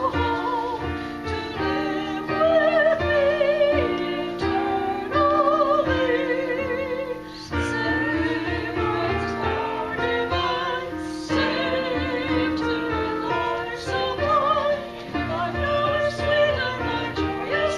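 Music with a woman singing in a wavering, vibrato voice over accompaniment with sustained notes.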